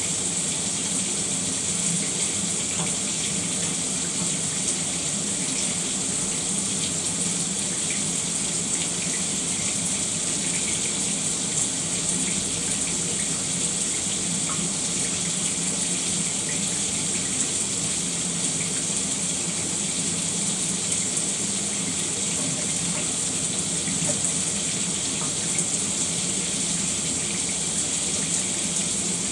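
Shower running steadily: a constant hiss of water spraying and splashing, without breaks.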